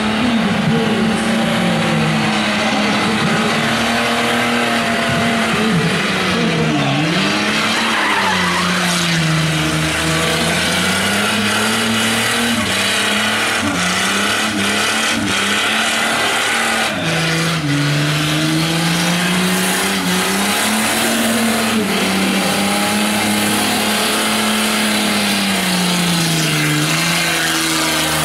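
Holden VR Commodore's 3.8-litre Buick V6 held at high revs through a long burnout, the revs sagging and climbing again every few seconds, over the hiss and squeal of the rear tyres spinning in place.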